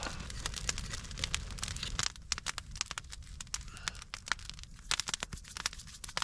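Wood campfire crackling, with irregular sharp pops and snaps over a low rumble of the fire.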